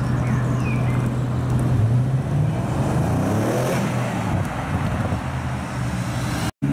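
Car engine running as it drives past, steady at first, then rising in pitch about two seconds in as it accelerates away.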